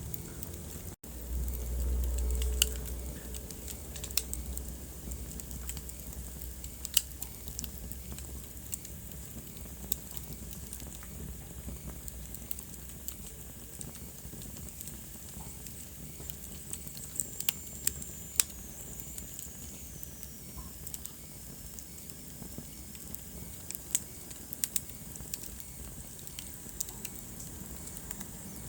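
Wood fire crackling in a fireplace: scattered sharp pops over a soft steady hiss. There is a low rumble for a few seconds near the start, and a faint high whistle slowly falls in pitch around the middle.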